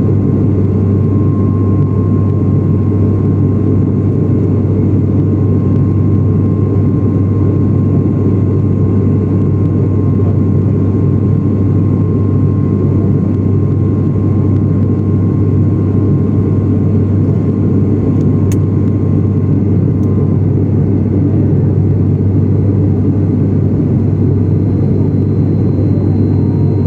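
Steady, loud drone of an airliner's engines heard inside the passenger cabin, a deep hum under constant rushing noise, with a faint steady whine that stops about twenty seconds in.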